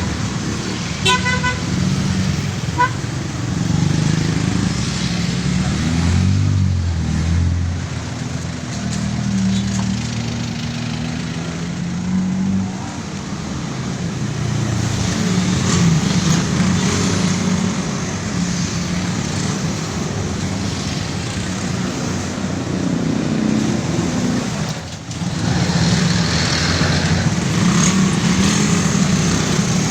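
Motorcycle and tricycle engines running in a riding convoy, their pitch shifting as they speed up and slow down, with a short horn beep about a second in and a fainter one about two seconds later.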